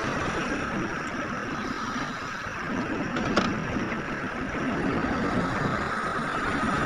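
Heavy diesel earthmoving machinery running steadily, with one sharp knock about halfway through.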